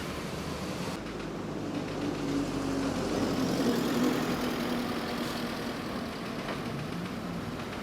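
A motor vehicle's engine running, its pitch drifting slightly up and down over traffic-like noise.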